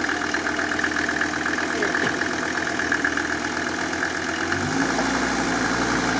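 Off-road prototype's engine idling with an even rhythmic pulse; about four and a half seconds in, the note changes and grows a little louder as the vehicle is put under load to pull out of the ravine.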